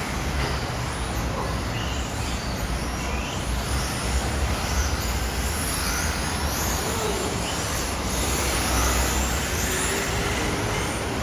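Radio-controlled cars racing: high-pitched motor whines that rise and fall again and again as the cars accelerate and brake, over a steady low rumble and street noise.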